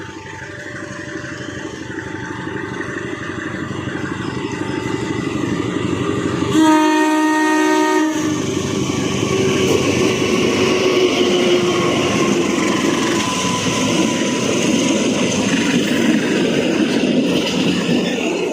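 Train running through a station at speed: its noise swells as it approaches, the locomotive sounds one horn blast of about a second and a half, then it rushes past with a continuous loud rumble and rattle of wheels on rail, over the hiss of heavy rain.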